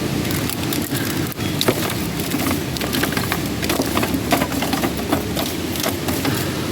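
Wood cooking fire crackling with frequent sharp pops and clicks, over a steady rushing noise.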